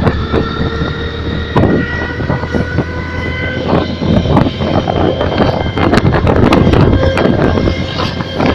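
Honda New Megapro motorcycle with an electronic sound booster, running loudly with a whining, pitched note that rises slowly over a few seconds, mixed with rough noise and knocks.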